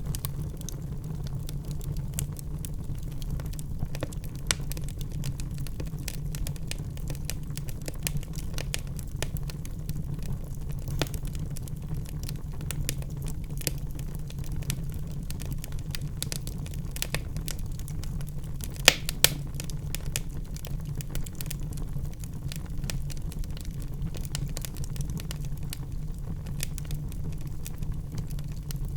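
Wood fire burning in a fireplace: a steady low rumble of the flames with frequent small crackles and pops from the burning logs, and two louder pops about two-thirds of the way through.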